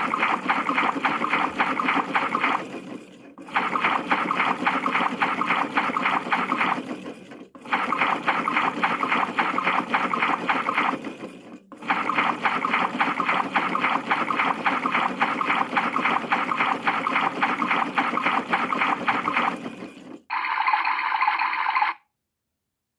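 Toy washing machine's small speaker playing its wash-cycle sound effect, a rhythmic water-sloshing noise that repeats in stretches with short breaks. About 20 seconds in it switches to a short sound with steady tones, which marks the end of the wash, and then stops.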